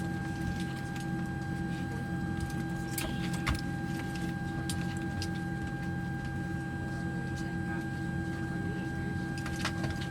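Steady hum of aircraft cabin machinery with an unchanging high whine over a low drone, and a few faint clicks about three seconds in.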